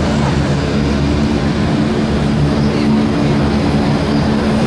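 Aircraft engine running steadily at a constant pitch, a low drone with no rise or fall.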